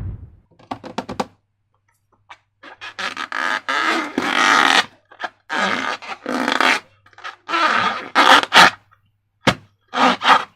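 Sticky slime squelching in a run of irregular wet bursts, with a few quick clicks about a second in.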